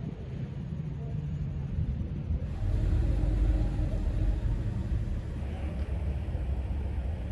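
A car engine running with a low rumble that grows louder about two and a half seconds in.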